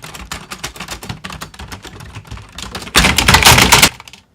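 Rapid typing on a keyboard: a run of quick key clicks that becomes a much louder, dense clatter about three seconds in, then stops.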